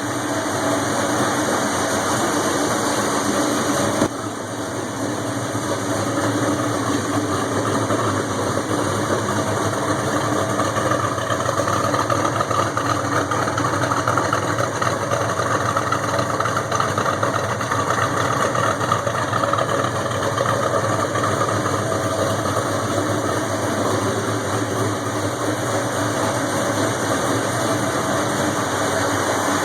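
1969 Chevelle SS's 460 cubic-inch V8 idling steadily through a Gardner exhaust. A sharp click about four seconds in.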